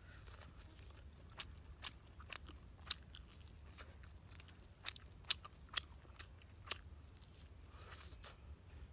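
A person biting and chewing braised chicken, with irregular sharp mouth clicks, the loudest a handful a little past the middle.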